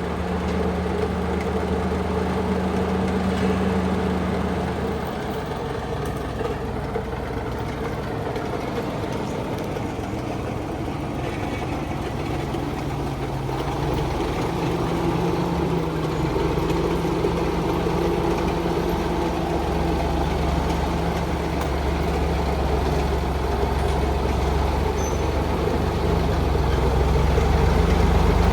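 Old heavy truck's engine running under load. Its pitch drops about five seconds in, picks up again around fourteen seconds, and it grows louder near the end.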